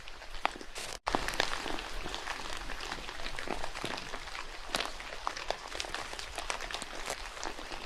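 Rain falling in a forest, a steady hiss full of many separate drop ticks. The sound drops out for an instant about a second in.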